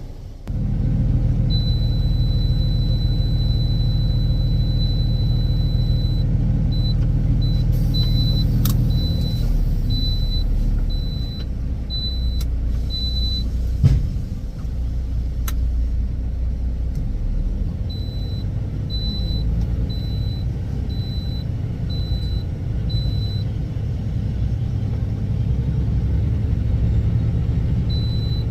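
Heavy truck's engine running, a steady low rumble heard inside the cab that starts suddenly and turns rougher about ten seconds in. A faint high-pitched beeping pulses on and off for two stretches, and a single sharp knock comes about halfway through.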